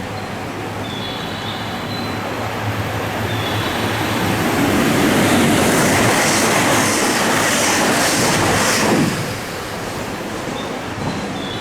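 Train passing through a station platform: the rumble and wheel noise build over several seconds, with a rhythmic wheel clatter at the loudest part. The noise drops off abruptly about nine seconds in as the last car goes by.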